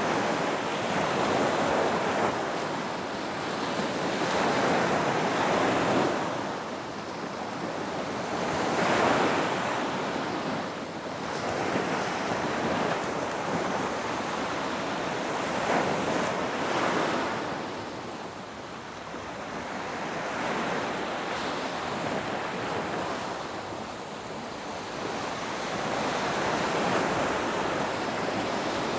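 Ocean waves breaking on a beach: a continuous wash of surf that swells and ebbs as each wave comes in and draws back, several times over.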